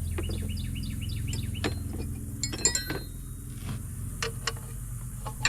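Metal hand tools clinking and knocking against each other and the tractor, with a cluster of sharp clinks near the middle. A bird chirps a quick repeated call in the first two seconds, over a low steady hum.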